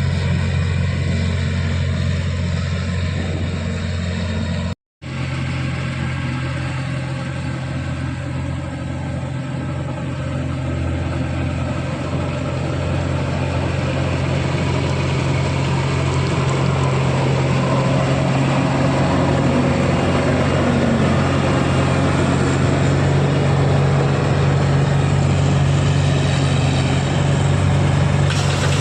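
Diesel engine of farm machinery, a combine harvester or tractor, running steadily with a deep, even hum. The sound cuts out completely for a moment about five seconds in, then carries on and grows slightly louder toward the end.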